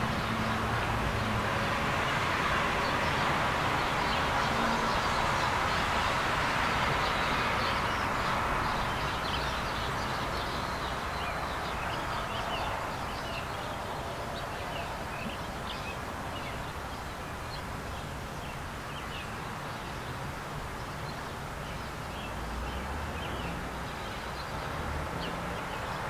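Wild songbirds giving short, scattered chirps and calls. Under them a broad rushing noise swells over the first ten seconds or so and then fades away.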